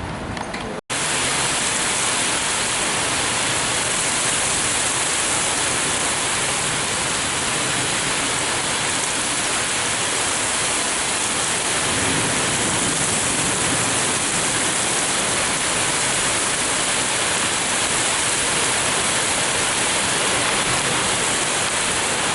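Heavy thunderstorm rain pouring down in a steady, loud hiss, after a brief break in the sound about a second in.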